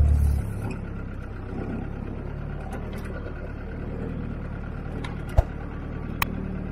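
A vehicle's engine running steadily while driving, heard from inside the cabin, with a heavy low thump right at the start and a few sharp clicks, the loudest about five and a half seconds in.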